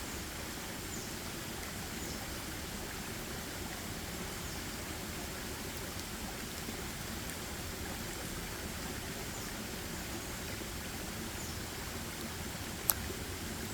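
Steady forest ambience: a continuous even rushing hiss. Faint short high chirps drop in pitch every second or two, and a single sharp click comes near the end.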